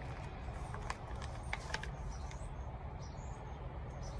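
Faint background ambience: a steady low rumble with a few small clicks and a few short, high bird chirps in the distance.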